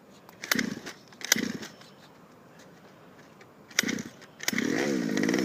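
A dog barking: three short barks, then a longer, wavering bark-howl near the end.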